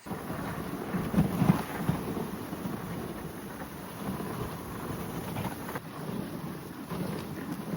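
Steady rumbling rush of wind buffeting the phone's microphone, swelling a little louder about a second in.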